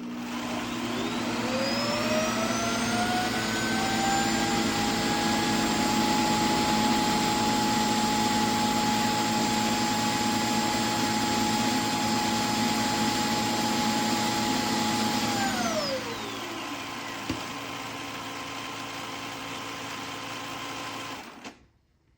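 Shark NeverTouch Pro self-empty base's suction motor running loudly to empty the robot vacuum's dust bin. Its whine rises over the first few seconds to a steady pitch, winds down about three quarters of the way through, and the remaining noise cuts off suddenly near the end.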